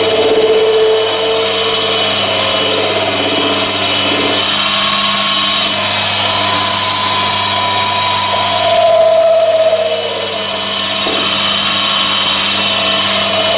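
Chinese mini lathe running under power while its tool cuts stainless steel, throwing chips. The motor gives a steady hum, and cutting tones come and go over it.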